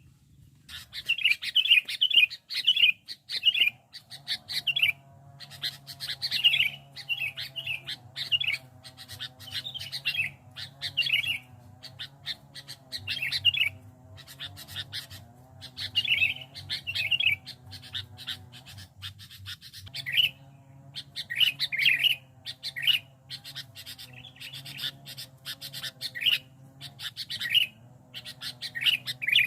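Sooty-headed bulbul (kutilang) singing, repeating short chirpy phrases in bouts throughout. A fainter steady hum runs behind it for most of the time, breaking off briefly near the middle.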